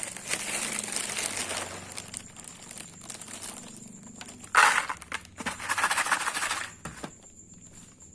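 Rustling, crinkling noises in three bursts: one at the start, a short sharp one about four and a half seconds in, and a longer one just after.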